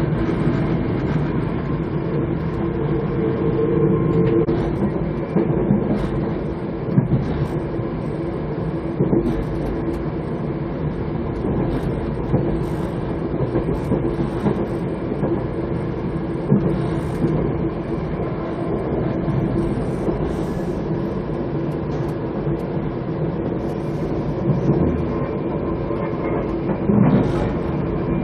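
Passenger train running at speed, heard from inside the car: a steady rumble of wheels on the rails with a constant hum and occasional clacks over rail joints.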